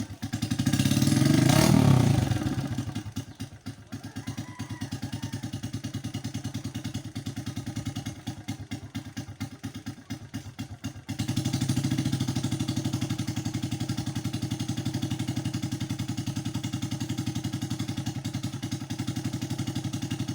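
An engine catching suddenly and revving briefly, then running at a steady idle with a fast, even pulsing beat that gets louder about eleven seconds in.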